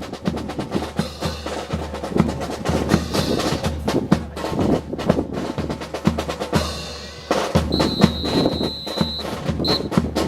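Marching percussion, snare and bass drums, playing a steady drum cadence for the drill. Near the end a high steady tone sounds for about a second and a half, followed by a short blip.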